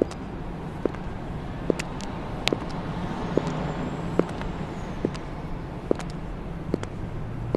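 High-heel footsteps clicking on pavement at a steady walking pace, a little more than one step a second, over a steady hum of street traffic.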